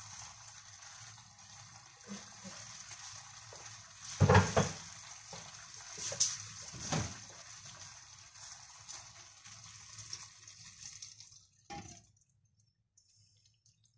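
Meat, potatoes and vegetables frying in a pan with a steady sizzle, with a few loud knocks about four seconds in and fainter ones around six and seven seconds. The sizzle stops abruptly near the end.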